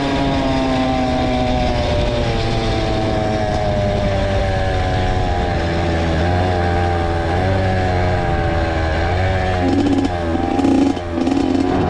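Two-stroke Honda CR dirt bike engine running, its pitch sinking slowly and wavering with small throttle changes, with a brief dip near the end.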